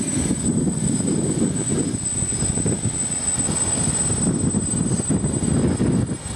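DJI F550 hexacopter in flight, its six stock DJI motors and Graupner 8x5 propellers humming steadily with a thin high whine. Strong wind buffets the microphone.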